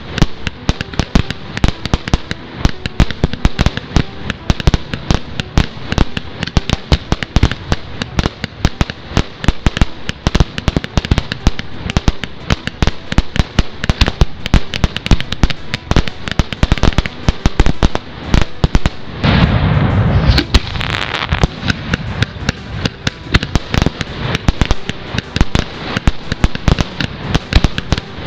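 Fireworks crackling and popping in a dense, irregular stream of sharp cracks. About 19 seconds in, a louder, deeper burst lasts for roughly two seconds.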